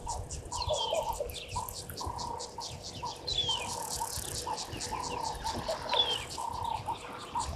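Wild doves cooing in short repeated low notes, joined about three times by another bird's brief falling whistle, over a fast, high ticking.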